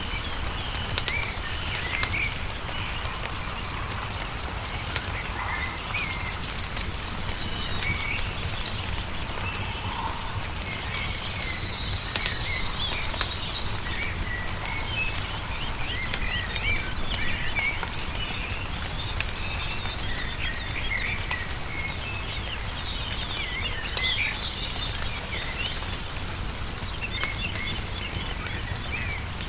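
Small birds singing in many short chirps and twitters over the scattered sharp pops of a crackling wood fire and a steady low rumble.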